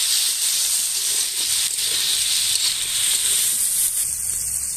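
Fish fat (macher tel) frying with eggplant, onion and green chillies in a steel wok: a loud, steady hissing sizzle that eases slightly near the end.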